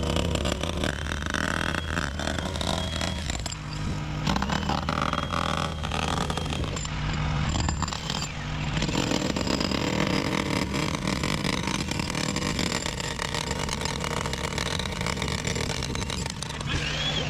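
Engine of a piece of machinery running steadily, its sound swelling and easing a little every few seconds as the load changes.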